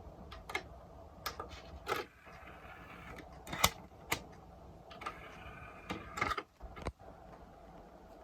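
Irregular small clicks, taps and brief scrapes of hands handling hard parts during repair work, with one sharper click a few seconds in.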